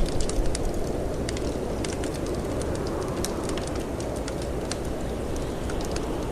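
Wood fire crackling in a fireplace, with scattered sharp pops and a few louder ones in the first half second, over a steady rush of wind.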